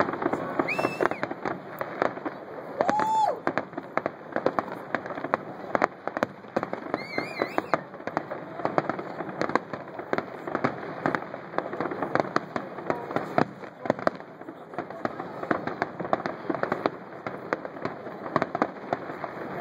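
Fireworks display: a continuous, irregular run of bangs and crackling from aerial bursts. A few short pitched sounds rise and fall near the start and about seven seconds in.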